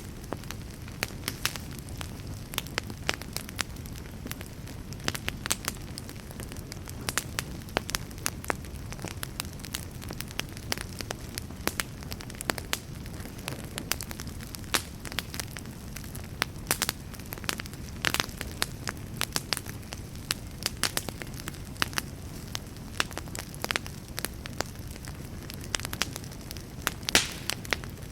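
Wood fire burning in a fireplace: a steady low rumble of flame under frequent sharp crackles and pops of burning wood, with one louder pop near the end.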